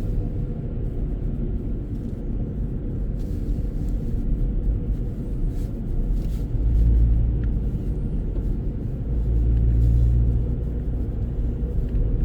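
Car driving, heard from inside the cabin: a steady low rumble of engine and tyres on the road, swelling louder twice in the second half.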